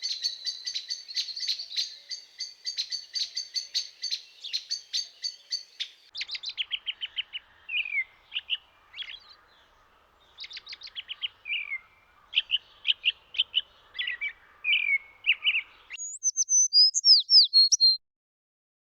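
Songbirds chirping: a dense run of rapid high chirps, then a different song of quick trilled notes and down-slurred whistles, then a few louder sharp high calls that stop abruptly near the end.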